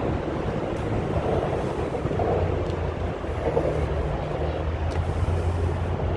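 Steady low rumble of vehicle engines, with wind buffeting the microphone.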